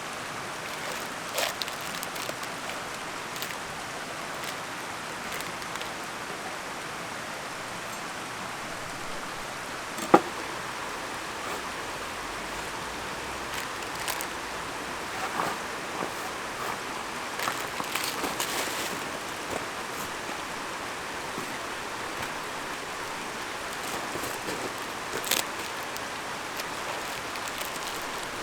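Mountain stream flowing steadily, with scattered light clicks and taps over it and one sharp click about ten seconds in.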